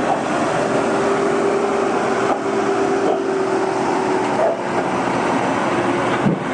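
Tractor engine running steadily at an even speed, with a constant droning pitch.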